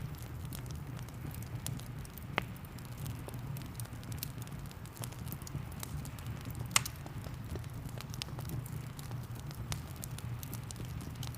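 Wood fire crackling with many small snaps and two louder sharp pops, one a couple of seconds in and one about two-thirds through, over a steady low rumble, with rain pattering.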